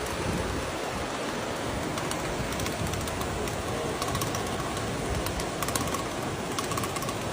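Steady rushing noise of storm floodwater and rain, with a few faint ticks near the end.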